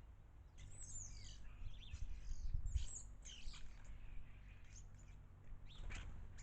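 Garden birds chirping: a cluster of short, high, quick calls in the first half and a few more near the end, over a low rumble that swells briefly about two and a half seconds in.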